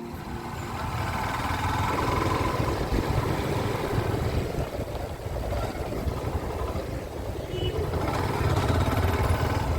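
Small-displacement motorcycle running on the road, its engine rumble mixed with rushing wind noise on the microphone.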